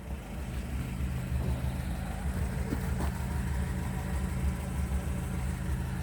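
1962 Ford Consul 375's four-cylinder engine idling steadily, having ticked over from a cold start for several minutes. Two faint clicks sound near the middle.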